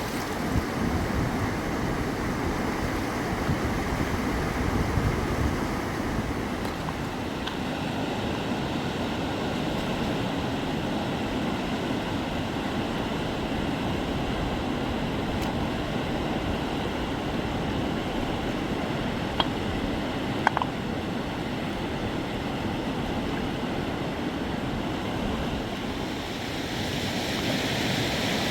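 Steady rushing noise of flowing river water, with a few faint clicks about two-thirds of the way through.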